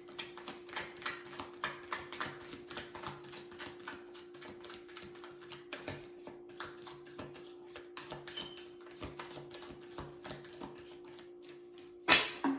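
A deck of tarot cards being shuffled by hand: a rapid, uneven run of soft card clicks and flutters, with a steady low hum behind. A single sharp knock near the end.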